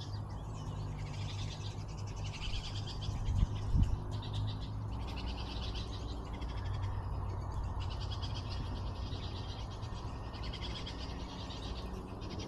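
Fledgling birds begging, in bouts of about a second of rapid, repeated high calls: young birds calling to be fed by their parents. Under them runs a steady low rumble, with two low knocks about three and a half seconds in.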